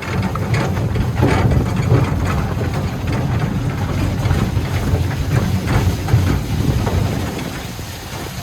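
Steady, uneven low rumble of wind buffeting the microphone, with scattered rattling noise from a moving ride.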